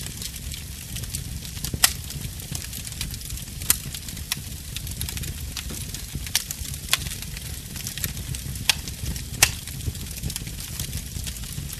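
Wood fire burning in a fireplace: a steady low rumble and hiss with scattered sharp crackles and pops, four of them louder than the rest.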